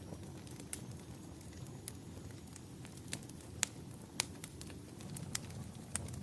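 Wood fire crackling in a fireplace, with several sharp, irregular pops over a low, steady rumble.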